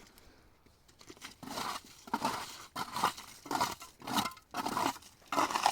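A steady rhythm of rough crunching or scraping strokes, somewhat under two a second, starting about a second in.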